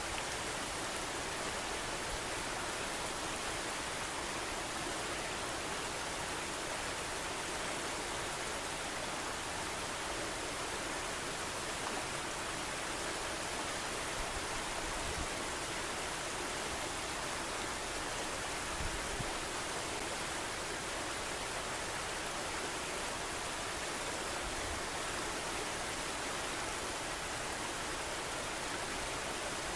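Steady rushing of river water flowing, with a few brief low bumps of wind on the microphone.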